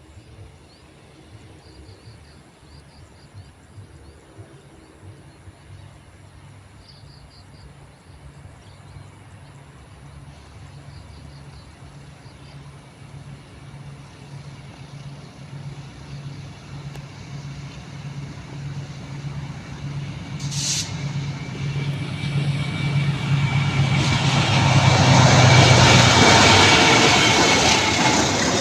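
Diesel locomotive approaching on a curve, its engine drone pulsing evenly and growing steadily louder. In the last several seconds the rush of the train's wheels builds and a thin, high, steady wheel squeal from the curve joins in, after a single sharp click.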